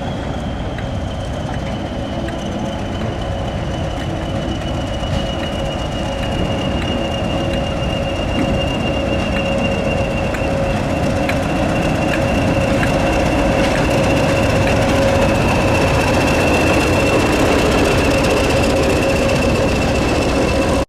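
Diesel-hauled heritage train running, its rumble growing gradually louder, with a high whine that falls slightly in pitch and a steadier lower tone throughout.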